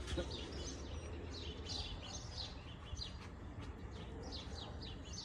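Small songbirds chirping, short high chirps a few times a second, over a low steady rumble.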